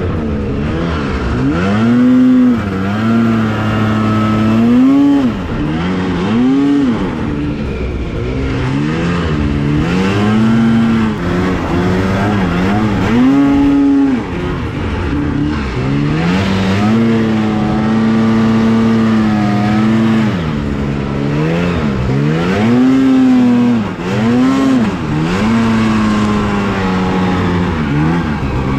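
Two-stroke snowmobile engine revving up and down over and over, the throttle held steady for a few seconds at a time between the rises and drops.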